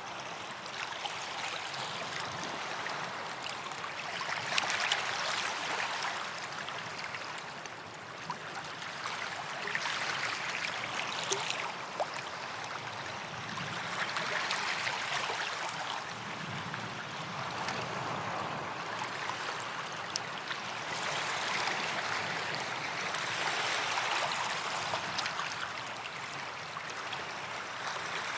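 Small waves breaking and washing up a sandy beach, swelling and easing every few seconds, with the fizz of water draining back through the sand.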